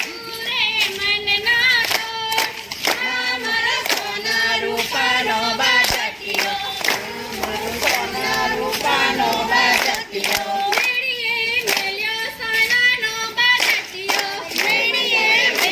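Voices singing a garba song together, with a wavering, ornamented melody, over rhythmic hand claps at about two a second.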